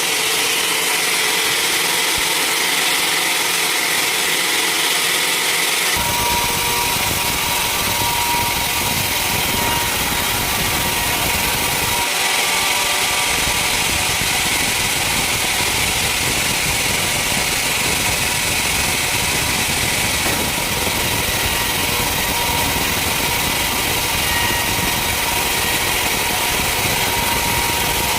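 Sawmill machinery running steadily: an engine-driven saw with loud, even mechanical noise, which grows fuller and deeper about six seconds in.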